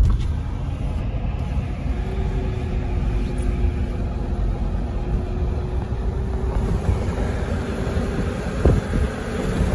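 Steady low road rumble inside a moving car, with a faint hum that rises slowly in pitch.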